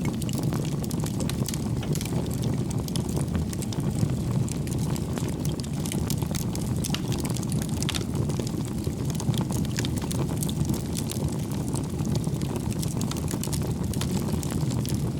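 Wood fire burning: a steady low rumble of flames with frequent small crackles and pops from the burning logs.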